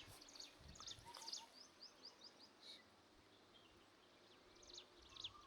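Faint bird chirps, quick high notes that sweep downward, in a cluster in the first half and again near the end, over near-silent background quiet.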